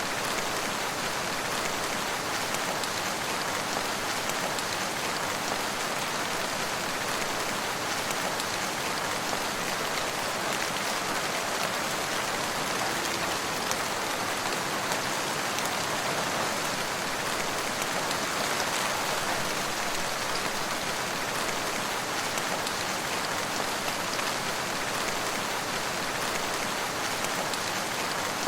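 Steady rain falling: an even hiss with scattered individual drop hits, unchanging throughout.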